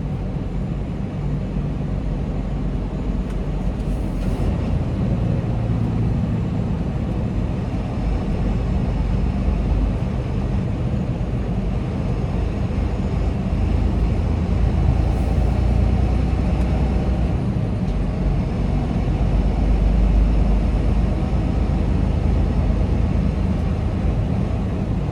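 Steady rumble of a semi-truck on the move, heard from inside the cab: diesel engine and road noise, swelling slightly a few times.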